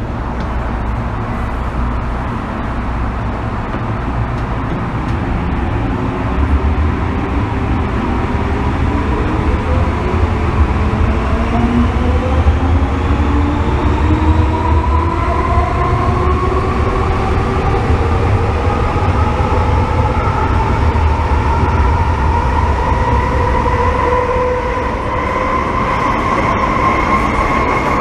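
MTR M-Train metro car heard from inside the car. Its electric traction motors whine in several tones that climb steadily in pitch from a few seconds in, over the steady rumble of the wheels on the track, as the train accelerates.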